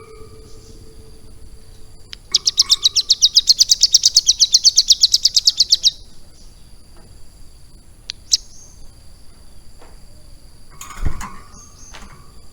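Ciblek gunung, a caged prinia, singing a fast trill of sharp high notes, about ten a second for nearly four seconds, followed by scattered single chirps.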